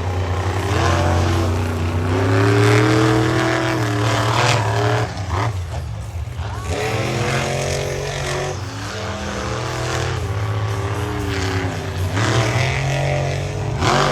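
Monster truck engines revving hard under racing throttle, their pitch climbing and dropping again and again.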